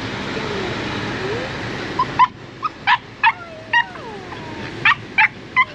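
A steady rushing noise cuts off about two seconds in. Then a puppy yelps about a dozen times in short, sharp cries, mixed with falling whines.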